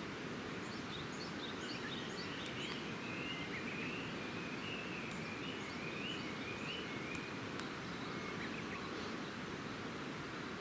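A bird singing a warbling phrase, with quick high chirps, over a steady outdoor hiss, with a few sharp crackles from a wood campfire.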